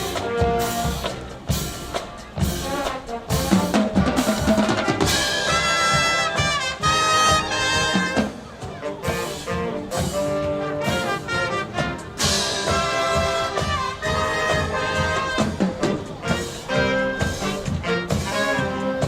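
High school wind band playing a lively tune with trumpets and trombones over a steady drum beat.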